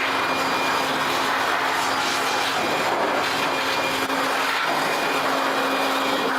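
Steady whirring machine noise at an even level, with a constant low hum under it.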